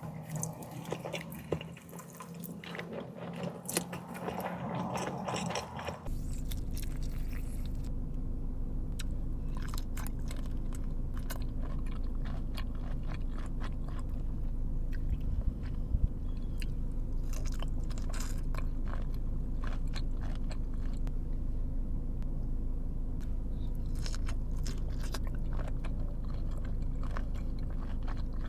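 Close-miked mukbang eating sounds: a person chewing and biting food, with many short wet clicks and crunches. A steady low hum comes in about six seconds in and runs under the chewing.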